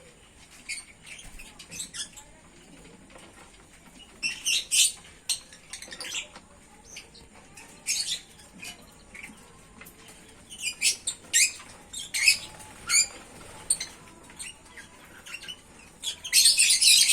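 Aviary birds chirping and squawking in short, high-pitched bursts separated by quieter gaps, with a dense flurry of calls near the end.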